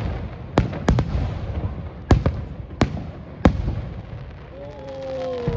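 Aerial fireworks shells bursting in a rapid series of sharp bangs over a continuous rumble, six bangs in about three and a half seconds. Near the end the bangs stop and a drawn-out tone glides slowly down in pitch.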